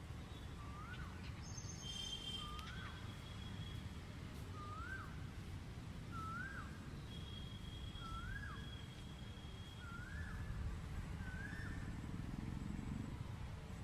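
A bird repeats a short, rising call about once every second and a bit, over a steady low rumble. Now and then a thin, high, held note can be heard.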